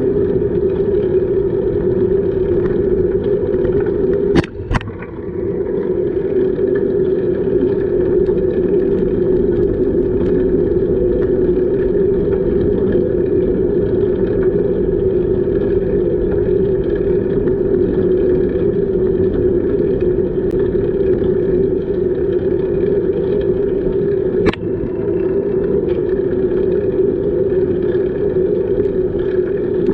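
Steady rumble of a bicycle ride heard on the camera's microphone: wind on the mic and tyres rolling on the path. A sharp double knock comes about four seconds in and a single knock near the end, the kind a bump jolting the camera makes.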